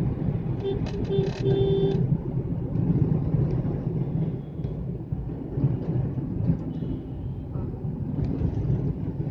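Steady low rumble of a Hyundai Xcent car driving on a city road. About a second in, a vehicle horn honks three times in quick succession, the last honk longer.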